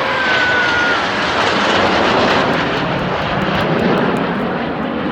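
Jet aircraft flying past, a loud rushing roar that builds to its loudest about two seconds in and then eases slightly.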